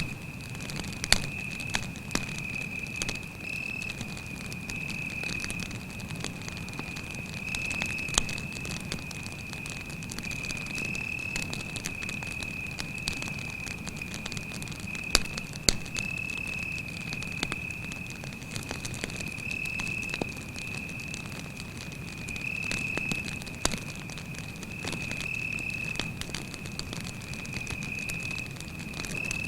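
Wood campfire crackling with scattered sharp pops, a few of them louder, over a low steady flame rumble. A cricket trills continuously at a high, even pitch.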